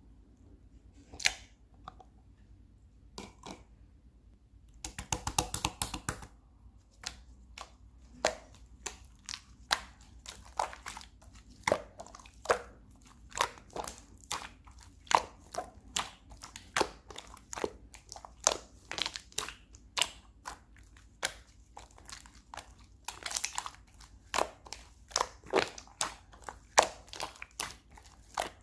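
Slime being worked by hand, giving a run of sticky pops and clicks, about one or two a second, with a dense crackly patch about five seconds in.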